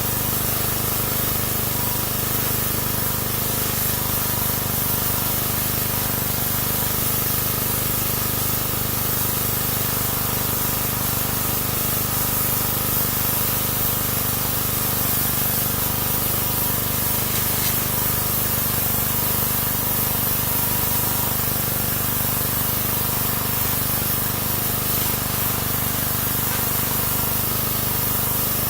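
Pressure washer spraying water continuously, a steady hiss of the jet over the steady hum of the machine.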